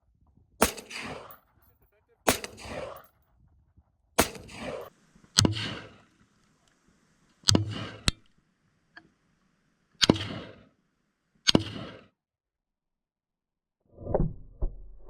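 Gunshots: about eight single shots fired one to two seconds apart, each a sharp crack with a short echoing tail. The shots hit tannerite targets without setting them off, so no explosion follows.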